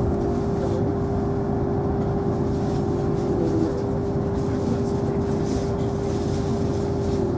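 Interior running noise of a DB ICE train rolling slowly onto a ferry's train deck: a steady rumble with a whine held at one pitch, heard from inside the passenger car.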